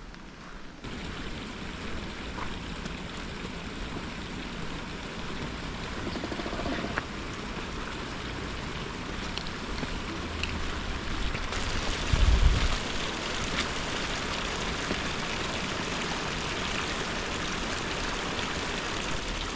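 Steady rushing of flowing water, like a stream or river, with one brief low thump about twelve seconds in.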